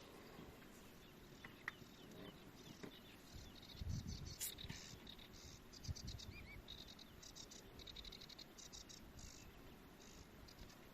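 Faint insects chirping in short repeated buzzy bursts, grouped in runs. Two soft low bumps sound about a third and halfway through.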